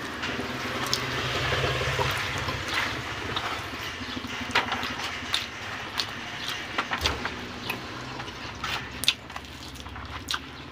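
A person chewing a mouthful of chicken and rice, with wet lip-smacking and scattered short mouth clicks over a steady low hum.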